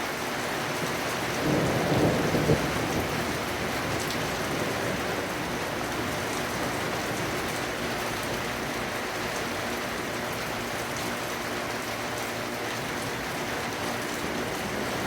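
Steady heavy rain falling in a thunderstorm, with a short louder low rumble of thunder about two seconds in.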